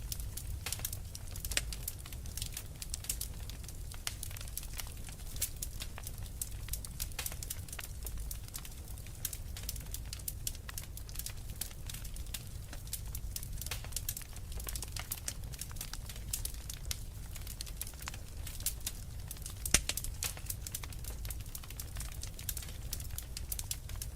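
Wood fire in a fireplace crackling, with frequent sharp irregular pops over a low steady rumble; one louder pop near the end.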